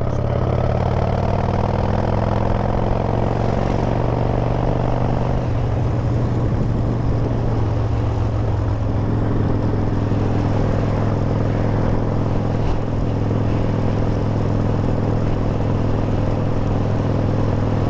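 Harley-Davidson V-twin motorcycle engine running under way. Its note rises gradually over the first five seconds or so, then holds steady.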